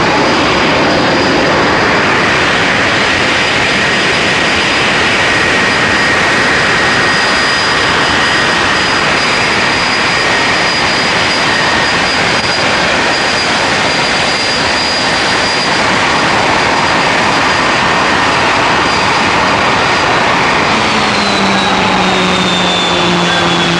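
Competition pulling tractor's engine running flat out during a pull, a loud roar with a steady high whine over it. Near the end the whine falls in pitch as the engine comes off power.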